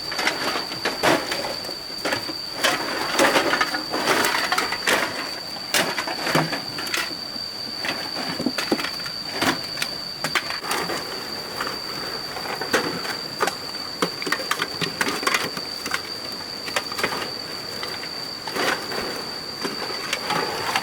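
Irregular knocking and scraping clatter, many sharp knocks spread through, over a steady high-pitched whine.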